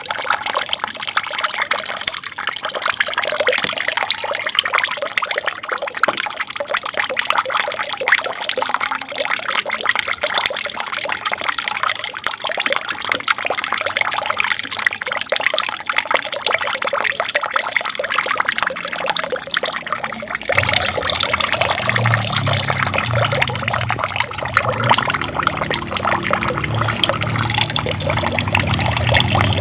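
Water trickling and splashing steadily down a small aquarium waterfall. About twenty seconds in, a low hum joins it.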